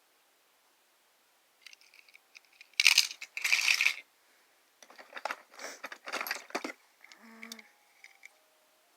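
Die-cast metal toy cars clinking and rattling against one another as they are picked through and handled. The clatter comes in several bursts and is loudest about three to four seconds in.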